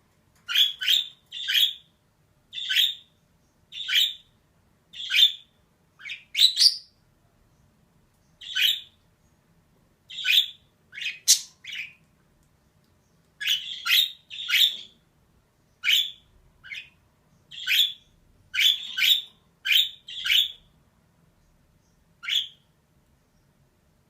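Female budgerigar calling in short, harsh chirps, one after another at roughly one a second with brief pauses, sometimes two or three in quick succession.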